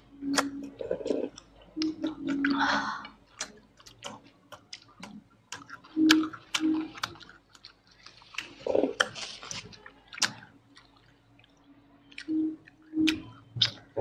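Close-miked chewing and wet mouth sounds of people eating Maggi noodles, rice and tandoori chicken, with many sharp clicks and smacks scattered throughout.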